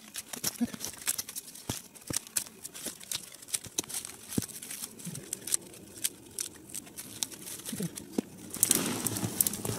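Thin twigs being snapped off and handled for kindling: irregular small cracks with light rustling of branches, the rustling thicker near the end.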